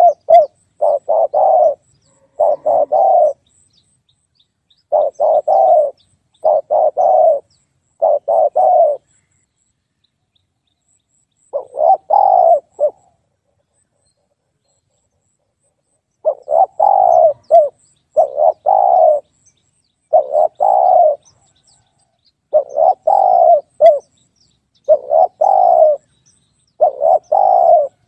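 Spotted dove cooing: its call repeated over and over, each phrase a quick run of a few low coos, with two pauses of a few seconds near the middle.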